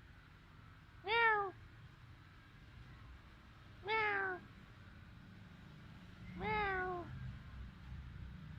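Domestic cat meowing three times, about two and a half seconds apart; each meow is short and rises slightly before falling in pitch, the last one drawn out a little longer.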